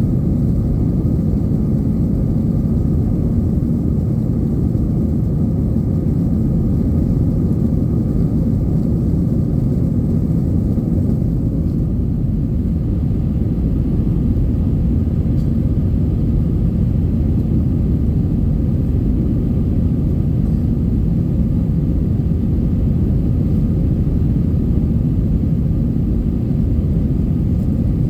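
Steady low rumble of an Airbus A321-200 heard from inside the passenger cabin: jet engine and airflow noise, unchanging in level.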